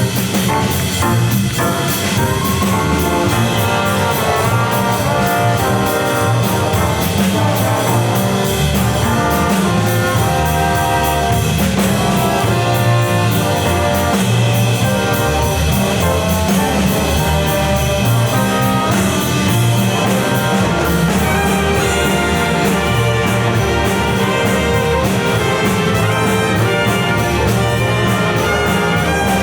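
A student ensemble playing music, continuous and steady.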